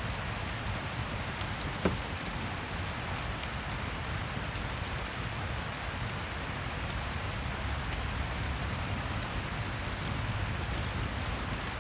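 Steady rain with scattered small fireplace crackles and one louder click about two seconds in.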